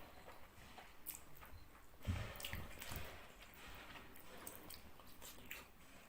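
Close, wet chewing and squishing of rice and fish curry, with scattered mouth clicks and a dull thump about two seconds in.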